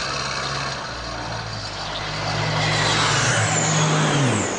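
An engine running with a steady drone that grows slightly louder, its pitch dropping sharply just before the end, with a faint high whine sliding down at the same time.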